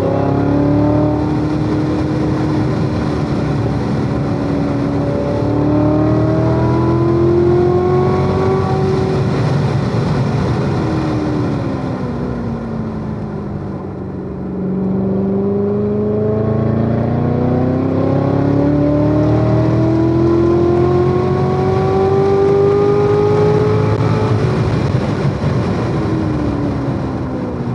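Supercharged 6.2-litre V8 of a C7 Corvette Z06 at full throttle on track. Its pitch climbs steadily for several seconds, then winds down as the car slows; this happens twice.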